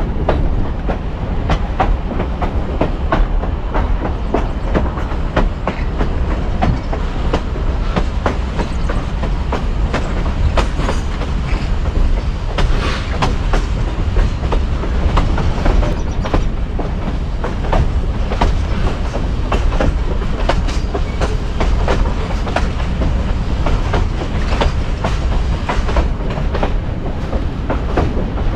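Vintage passenger train rolling along the track: a steady low rumble with a rapid, irregular clatter of wheels clicking and knocking over the rail joints.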